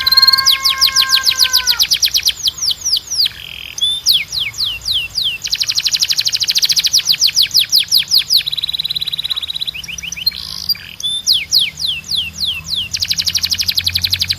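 Domestic canary singing loud, rapid trills: fast runs of sharply falling whistled notes alternating with dense rolling phrases. A held whistled note at the start cuts off about two seconds in.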